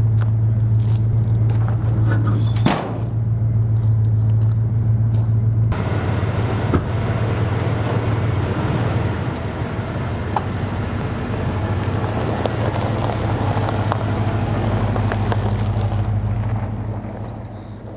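A motor vehicle running with a steady low hum. About six seconds in the sound changes abruptly to a fuller rush of road and wind noise, which fades near the end.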